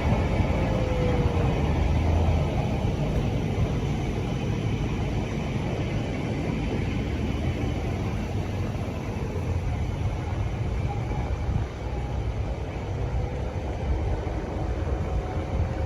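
Steady rumble of a moving vehicle mixed with wind on the microphone, with a faint whine that falls in pitch near the start and rises again near the end.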